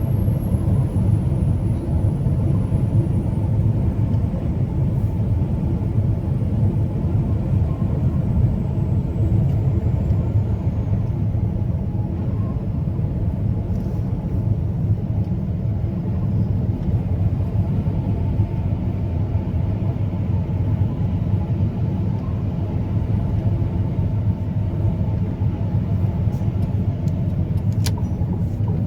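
Truck engine and road noise while driving: a steady low rumble, with a faint high whine that slowly falls in pitch over the first several seconds and a sharp click near the end.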